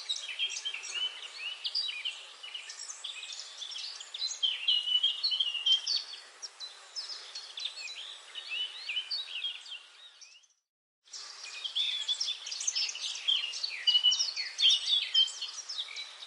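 Forest bird chorus: many small birds chirping and twittering densely over a faint hiss. About ten seconds in, the sound dies away into a second of silence, a gap in the recording, then starts again abruptly.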